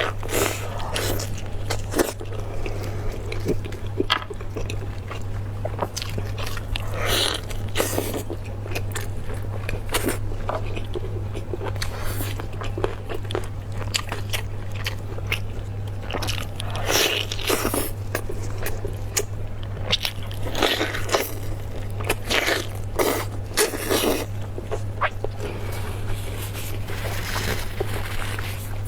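Close-up eating of beef bone marrow from large beef bones: irregular biting, chewing and scraping at the bones. A steady low hum runs underneath.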